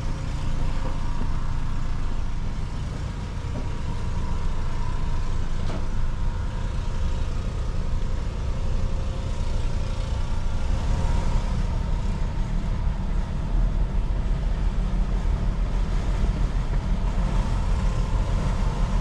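A catamaran's diesel engine running steadily at low speed while the boat manoeuvres into a marina slip.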